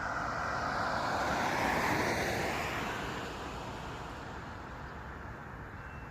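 A passing road vehicle's rushing noise swells to its loudest about two seconds in, then slowly fades. A faint steady high tone comes in near the end.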